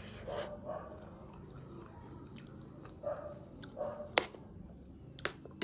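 Close-up chewing and biting of aalu nimki, a fried potato snack, with scattered sharp crunchy clicks, the loudest about four seconds in.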